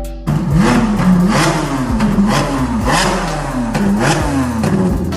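Ferrari 458 Spider's V8 through an aftermarket Fi exhaust, revved in quick repeated blips about twice a second, each rising and falling in pitch. It starts a moment in.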